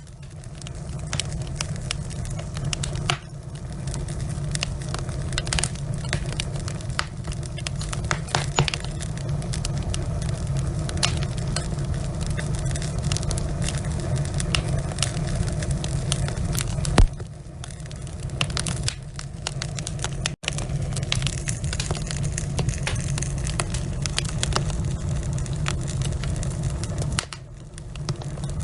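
Wood fire of burning logs in a fireplace, crackling and popping irregularly over a steady low rumble. One loud pop comes about two-thirds of the way through.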